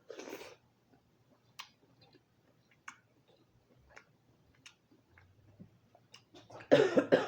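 Close-up eating sounds of lobster being chewed: scattered small wet clicks and smacks, a short burst at the start, and a louder, denser crackling burst near the end.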